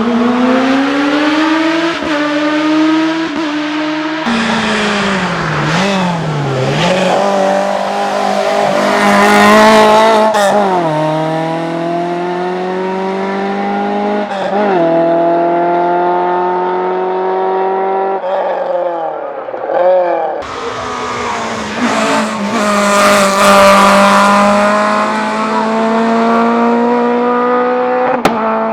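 Race car engines at full throttle, each climbing steadily in pitch and dropping back at the upshifts, with a brief dip and rise about six seconds in. The sound changes abruptly several times as it cuts from one car to another.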